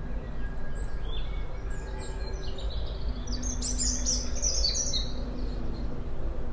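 Birdsong: a flurry of short, high chirps and trills, thickest around the middle, over a steady low rumble with a few faint held low tones.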